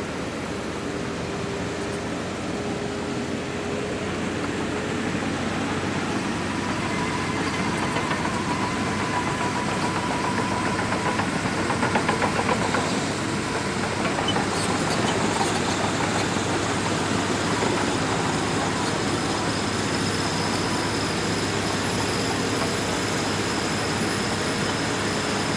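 Shantui DH17C2 bulldozer's diesel engine running steadily under work, growing louder in the middle, with thin high whines joining in during the second half.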